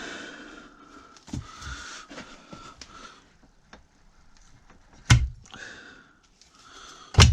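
Metal parts of a clutch pedal box being worked by hand while a new pedal spring and bushes are fitted: scraping and small clicks, then two loud clunks about five and seven seconds in.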